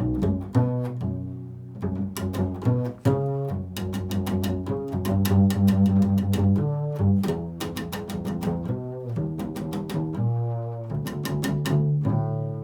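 Improvised solo music on a low-pitched string instrument: a continuous run of deep notes, some sharply plucked and some held.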